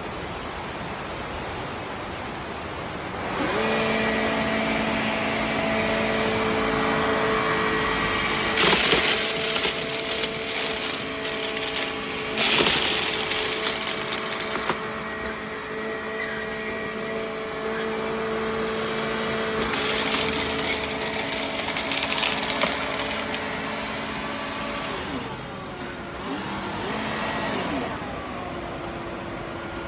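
Makita VC010G cordless upright vacuum switching on about three seconds in and running with a steady motor whine over a rush of air. The air rush grows louder and hissier in several stretches. Near the end the whine slides down in pitch and settles at a different note.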